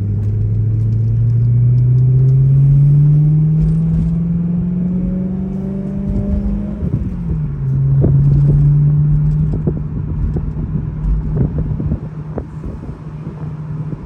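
A 2012 BMW E93 M3's V8 engine pulling the car along, its pitch rising steadily, then dropping at a gear change about seven seconds in and holding steady. Through the second half come many short, sharp rattles and knocks: the metallic rattle from underneath the car over bumps and road imperfections that the owner is trying to trace.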